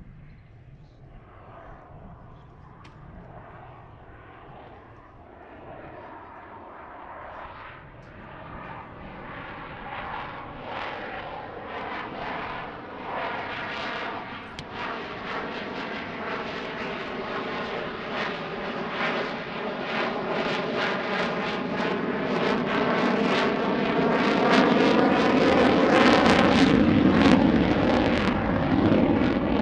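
An airplane's engine drone grows steadily louder as the aircraft approaches, from faint at first to loud near the end, with a steady pitched hum running through it.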